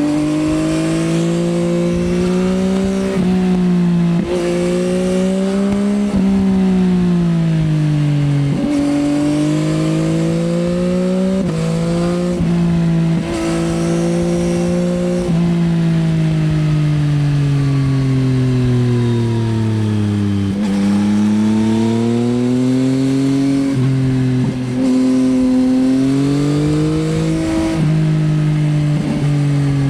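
Yamaha XSR900's 890 cc inline-three engine through an Akrapovič Racing Line exhaust, under way: the revs climb and drop sharply at a run of quick upshifts. Then they fall steadily for several seconds as the bike slows, before climbing through the gears again.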